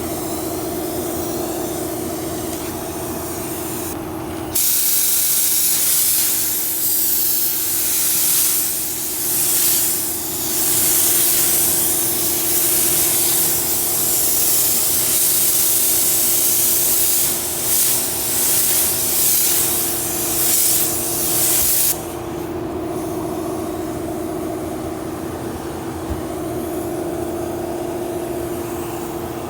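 Compressed-air paint spray gun hissing loudly from about four seconds in, swelling and dipping in passes, then cutting off sharply near 22 seconds. A steady machine hum runs underneath the whole time.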